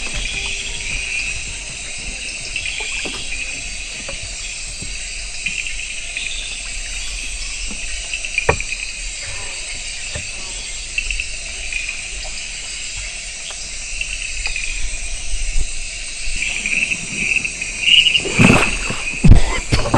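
Night-time rainforest insect chorus, a steady high trilling that pulses continuously. A few loud knocks come near the end.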